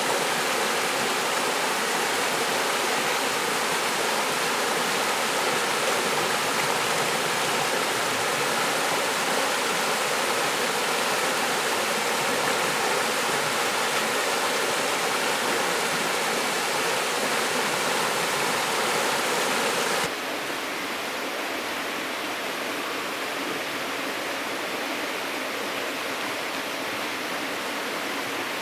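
Rushing river water, a steady even noise that drops suddenly to a slightly quieter, duller rush about two-thirds of the way through.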